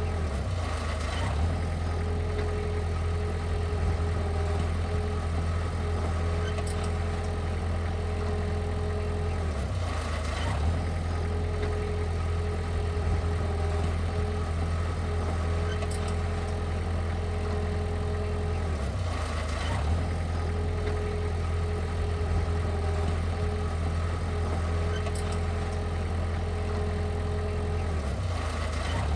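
Heavy equipment's diesel engine running steadily, with a short dip and change in its sound about every nine to ten seconds.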